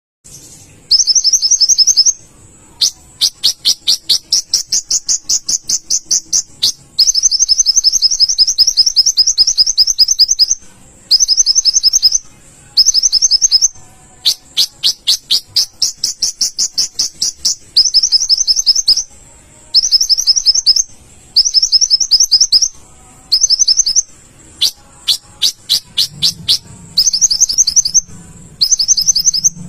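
Kolibri ninja sunbird singing at full song: fast, high, trilling strings of downward-sweeping chirps, about ten notes a second, in bursts of one to four seconds broken by short pauses.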